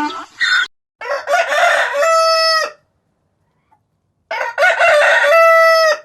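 Rooster crowing twice, each crow ending in a long held note.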